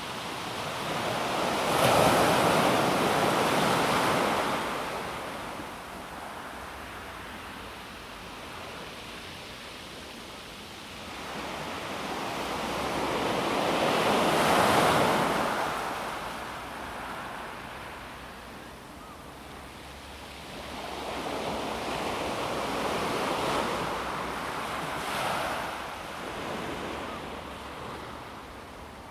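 Calm sea waves breaking on a pebble beach: three waves wash in, each swelling and then fading as it runs back over the stones, with a softer hiss of water between them.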